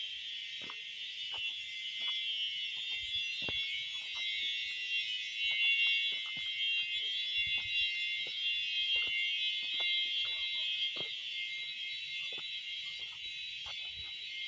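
Cicadas keeping up a steady, high, shrill chorus, with scattered faint ticks and knocks under it.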